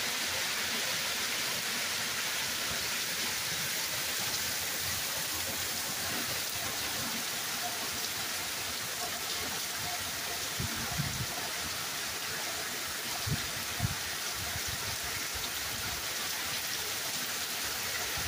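Hard rain falling steadily, an even hiss, with a few brief low bumps about two-thirds of the way through.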